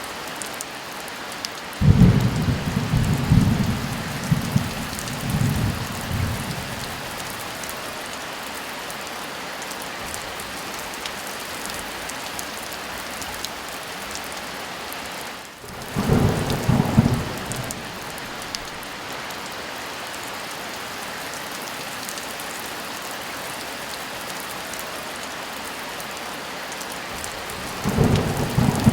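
Steady heavy rain with three rolls of thunder: a long rumble about two seconds in, a shorter one around the middle, and another starting near the end.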